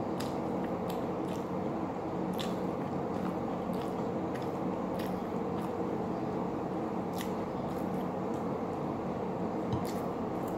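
Close-miked mouth sounds of a person chewing soft fish and rice, with irregular wet smacks and clicks, over a steady low hum.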